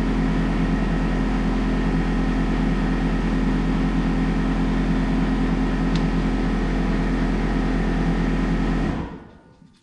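Shop air compressor running with a steady hum, then switched off about nine seconds in, dying away within half a second.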